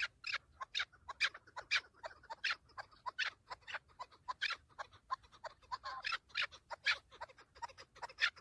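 Chukar partridge calling: a rapid, steady series of short clucking calls, about three a second.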